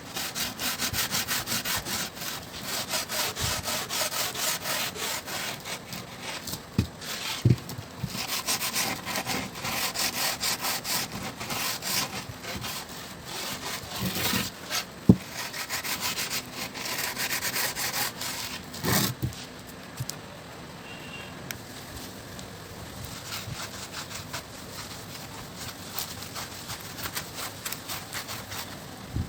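Quick back-and-forth abrasive strokes on the wooden longboard deck, like hand-sanding or scraping, with a couple of sharp knocks along the way. The strokes stop about two-thirds of the way through, leaving only faint background.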